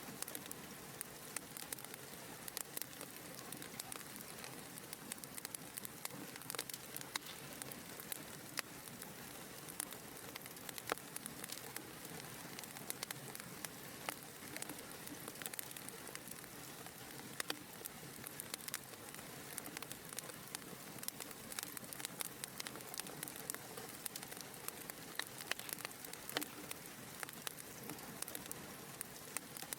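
Wood fire burning with a soft steady hiss and frequent irregular small crackles and pops.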